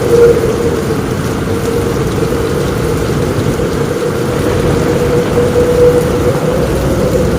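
Heavy rain falling steadily on a roof, a deep, even rush with no distinct claps.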